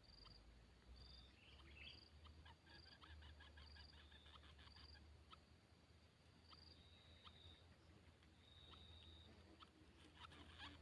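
Faint outdoor ambience with short, high, clean notes from small birds, repeated at irregular intervals on two alternating pitches. A run of rapid soft ticks comes about two seconds in, and a cluster of clicks comes near the end.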